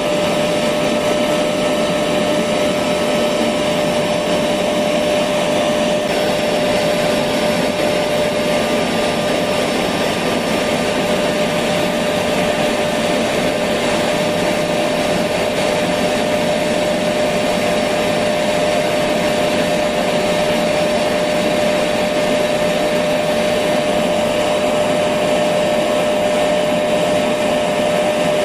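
Electric vacuum cleaner running steadily at one speed: an even rushing noise with a held mid-pitched hum that does not change.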